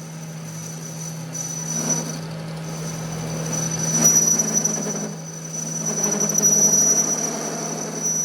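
Workshop machine running with a steady low hum and a thin, high squeal that breaks off briefly a few times, with rough scraping noise underneath, like metal being machined.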